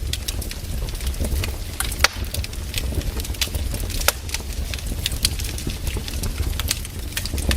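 Wood fire burning in a fireplace: frequent, irregular sharp crackles and pops over a steady low rumble of the flames.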